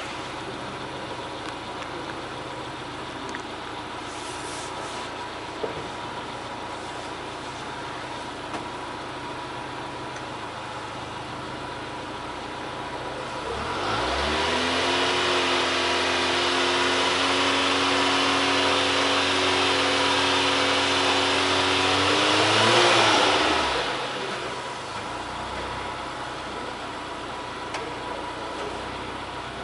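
Subaru Pleo's engine idling, then revved up about halfway through and held at a steady higher speed for about eight seconds. It rises a little more, then drops back to idle.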